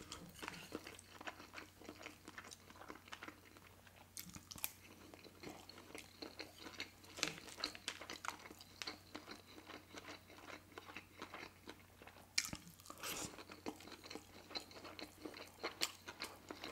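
Close-miked chewing of sushi rolls: soft wet mouth clicks and crunches, irregular, with a few sharper clicks now and then.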